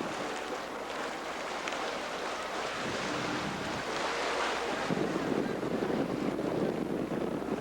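Wind buffeting the microphone over the wash of water, growing louder about five seconds in.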